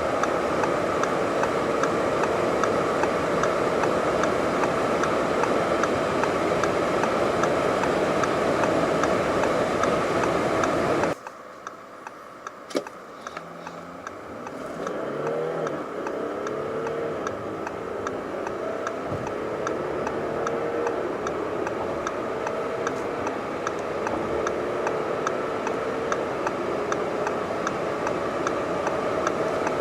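Audi A7 45 TDI's 3.0 V6 turbodiesel running hard at speed, with steady engine and road noise. About a third of the way in it cuts off abruptly. The engine then pulls up through the gears again, rising in pitch with short steps at each shift, under a faint regular ticking.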